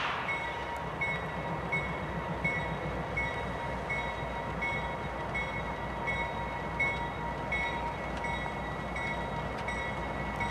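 Approaching CP coal train's diesel locomotives giving a steady low rumble. A bell rings steadily over it, about three strokes every two seconds.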